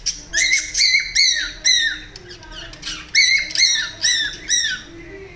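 Cockatiel giving short squawking calls, each a brief arched note, repeated about twice a second in two runs of about four with a pause between.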